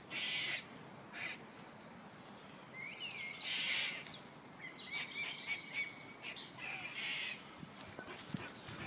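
Birds chirping and calling: many short chirps and whistles, with a few harsher calls, over a faint background hiss.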